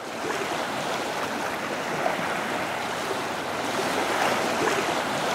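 Steady rush and splash of moving water.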